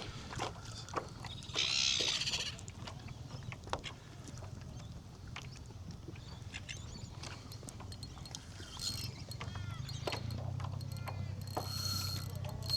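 Small knocks and ticks of fishing gear on a boat, with a low steady hum that grows louder in the last few seconds and a fishing reel whirring near the end as the crankbait is wound in.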